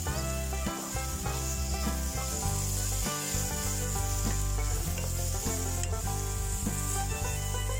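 Food sizzling steadily in a pan over a campfire while it is stirred.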